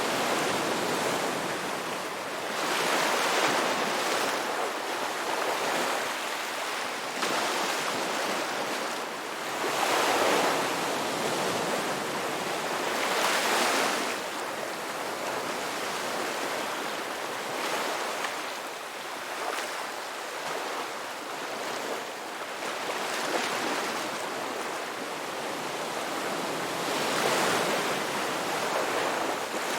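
Ocean surf: waves breaking and washing in a steady hiss, swelling louder every few seconds as each wave comes in.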